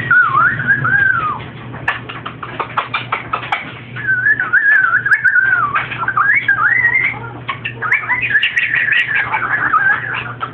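Pet parrot whistling and warbling in wavering tones, in three long runs, with quick clicks and taps between them.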